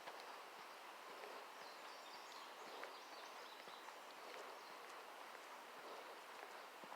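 Faint outdoor ambience: a soft steady hiss with a few faint bird chirps between about two and four seconds in, and scattered soft ticks of footsteps on the trail.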